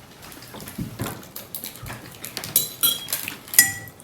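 Cutlery clinking against dishes during a meal: scattered light taps, with a few sharper ringing clinks in the second half, the loudest near the end.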